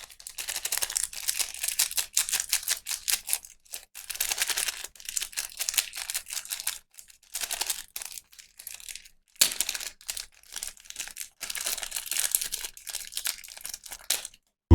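Toy packaging being handled and unwrapped, crinkling and tearing in quick crackly bursts with short pauses between them.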